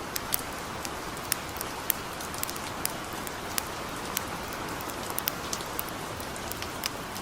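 A steady hiss of light rain with a campfire's irregular sharp crackles and pops over it.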